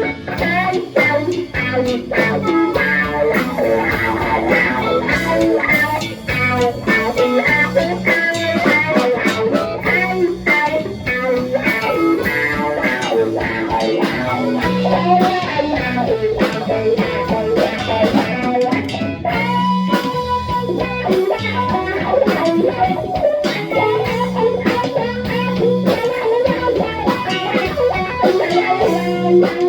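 Blues-rock band playing an instrumental break, with the guitar out front over bass and drums.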